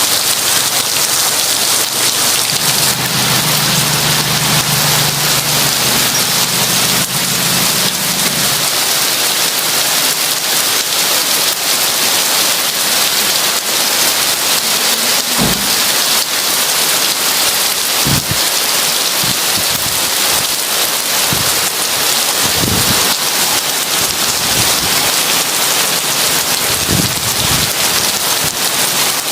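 Heavy rain falling steadily, with a low rumble of distant thunder a few seconds in and a few short low thuds later on.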